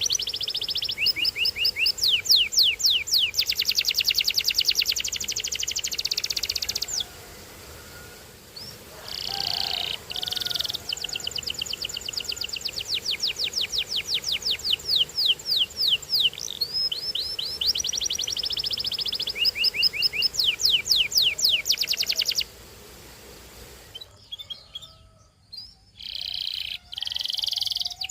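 Canary singing a long song of fast trills, rapid strings of repeated high notes sweeping downward, broken by short pauses between phrases.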